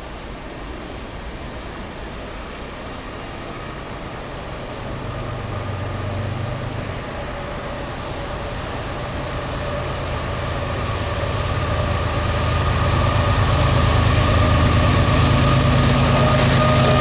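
CN diesel locomotive approaching, its sound growing steadily louder, with a low engine drone and a steady higher tone over it.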